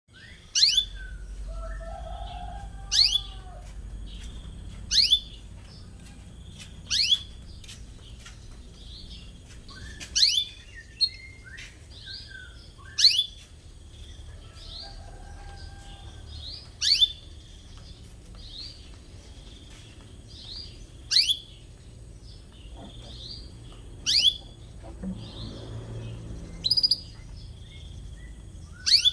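Domestic canary giving sharp, rising 'cuit' calls every two to four seconds, with softer chirps in between.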